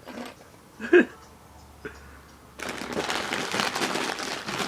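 Budgie bathing in a glass of orange juice: a few soft taps and a short sound about a second in, then from about halfway a dense crackly rustle of wet wings flapping and splashing in the juice.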